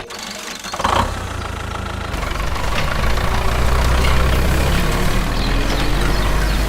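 A small engine starts running about a second in and keeps running steadily with a low rumble.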